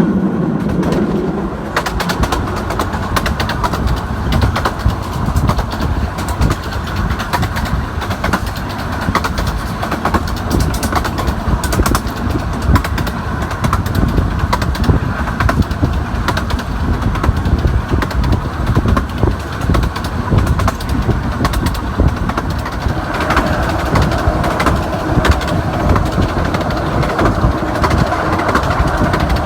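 15-inch gauge miniature railway train running along the track: a steady rumble with frequent clicks from the wheels on the rails.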